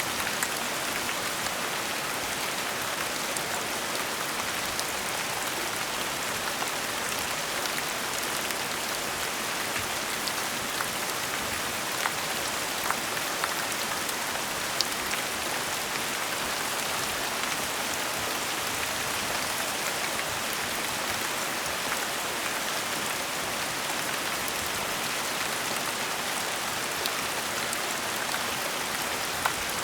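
Steady gentle rain falling, an even hiss with scattered individual drops ticking.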